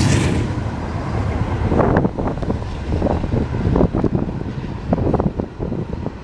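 A passing train with a steady low rumble, and wind gusting on the microphone from about two seconds in.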